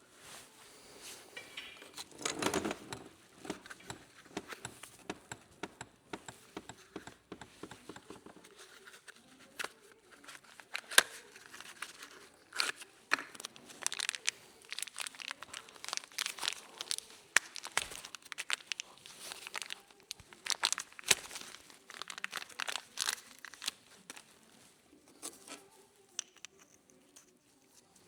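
Plastic packaging crinkling and tearing, with irregular sharp clicks and small taps of parts being handled by hand, typical of unwrapping a new top mount bearing.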